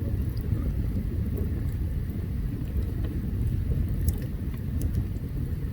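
Open campfire burning: a steady low rumble with sharp crackles and pops now and then, a few of them about four seconds in.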